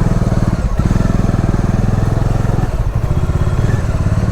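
Motorcycle engine running under way, a steady pulsing exhaust note, with brief dips in the note about a second in and again about three seconds in as the throttle eases.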